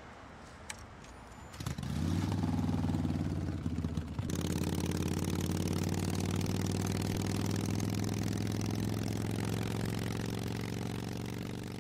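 Motorcycle engine starting about two seconds in, then running at a steady speed and fading out near the end.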